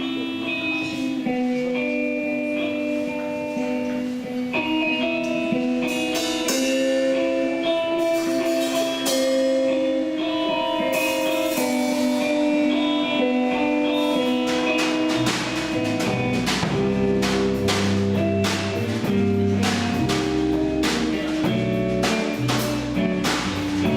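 Band music: a guitar plays a picked melody, and about fifteen seconds in bass and a drum kit with cymbals come in and the music fills out.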